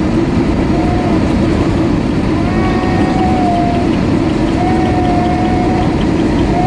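Steady low rushing noise of engines and airflow inside the cabin of an Airbus A320-232 airliner in flight, preparing for landing. A faint wavering tone comes and goes above it.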